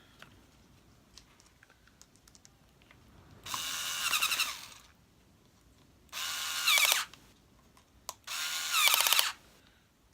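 Power screwdriver running in three short bursts of about a second each, driving screws to fasten a part back onto a vacuum cleaner during reassembly.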